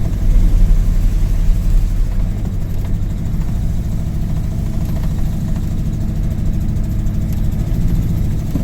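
Ford F-150 pickup's engine running under load, a steady low hum that is a little louder in the first two seconds. The throttle doesn't really want to give under load, a sign of the truck's lingering fuel-delivery problem.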